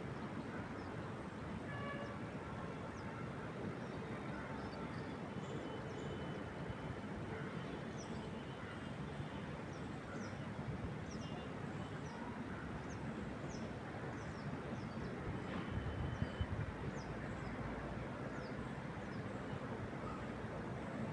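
Wind moving through trees as a steady rushing noise, with small birds chirping over it: many short, high, falling chirps and a few thin held notes. The low rushing swells about sixteen seconds in.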